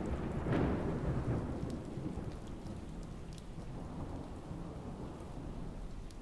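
Thunderstorm: a roll of thunder rumbling over steady rain, swelling in the first second and slowly fading away.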